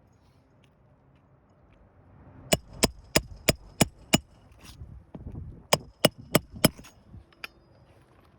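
A hammer striking metal in quick, even taps with a slight metallic ring: six strikes, a short pause, then four more, as roofing nails are worked loose from asphalt shingles.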